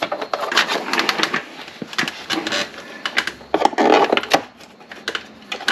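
Hands working on parts of a motorcycle's lower fairing: a rapid run of sharp clicks and knocks with rustling, and a denser, louder stretch of handling noise about four seconds in.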